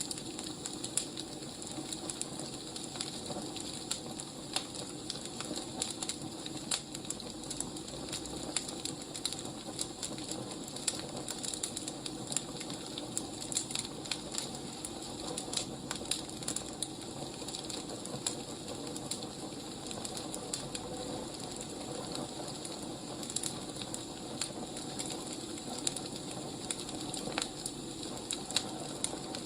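Wood fire crackling: a steady hiss with frequent small, irregular pops.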